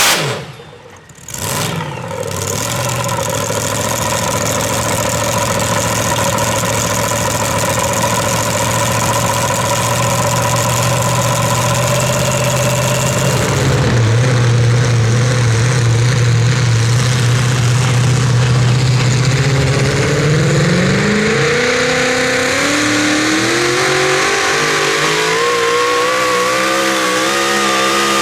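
Super modified 4WD pulling truck's engine running loud and steady at a low, even pitch. About twenty seconds in, the revs climb in steps as it throttles up.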